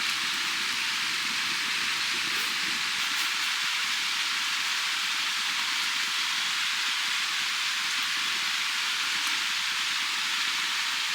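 A steady, even hiss with no breaks, like rain or fat sizzling.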